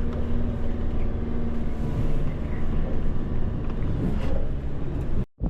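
A motor vehicle's engine running at a steady pitch. The sound cuts off abruptly near the end.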